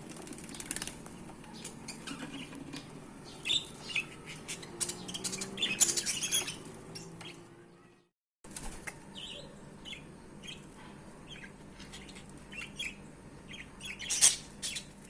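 Newly hatched nestling birds giving short, high chirps among rustling and fluttering wings. The sound drops out for a moment just past halfway.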